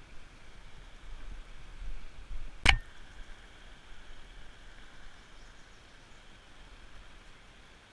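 A single sharp knock about two and a half seconds in, over a faint steady hiss and some low rumble.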